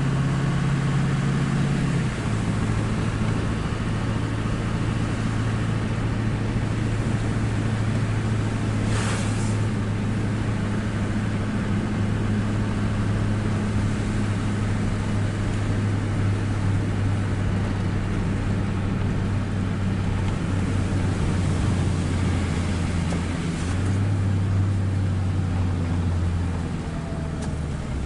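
Tow truck's engine running steadily as it drives along, a low drone whose pitch shifts about two seconds in and again near the end. A brief hiss about nine seconds in.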